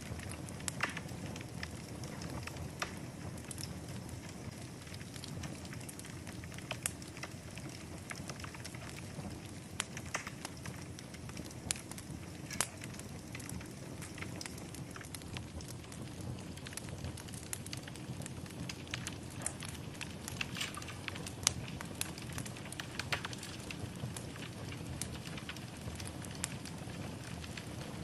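Wood fire burning in a fireplace: a steady low rumble of flames with scattered sharp crackles and pops, several a second.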